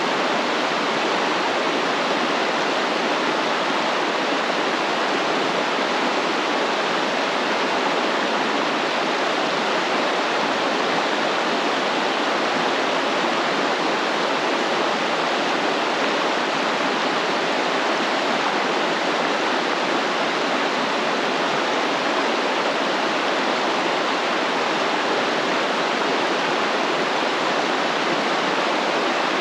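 Stream water flowing, a steady even rush without pause or change.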